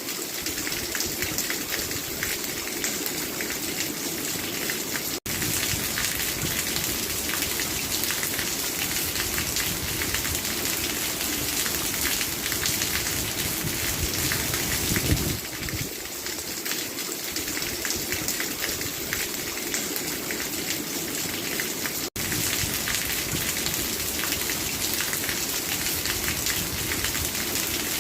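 Steady rain falling, a dense, even patter of drops on surfaces. The sound cuts out for an instant twice, about five seconds in and again near twenty-two seconds.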